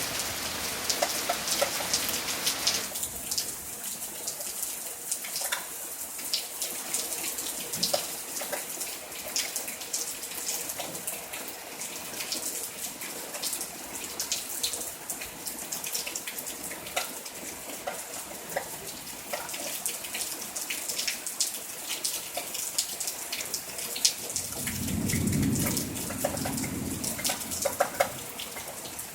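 Steady summer rain falling, a continuous hiss dotted with many small drop clicks. Near the end a low rumble swells for a couple of seconds and fades.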